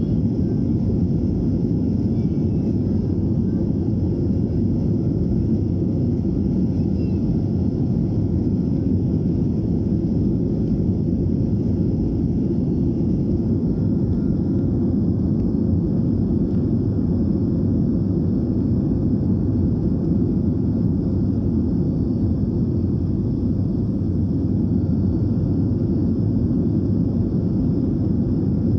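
Steady engine noise of a BAe 146-200 heard from inside the cabin, from its four Lycoming ALF502 turbofans: an even low rumble with a faint steady high whine, unchanging throughout.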